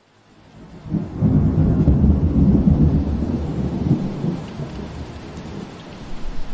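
Steady rain hiss fading in from silence, joined about a second in by a low rolling rumble of thunder that swells, then slowly dies away under the rain.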